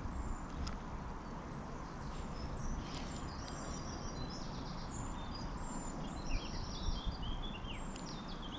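Small birds singing: quick high chirps and trills, starting a couple of seconds in and getting busier towards the end, over a steady low rumble.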